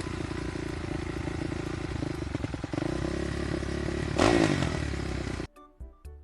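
Motorcycle engine running, its pitch climbing a little past the middle. A loud rev about four seconds in falls away, and the sound cuts off suddenly about five and a half seconds in.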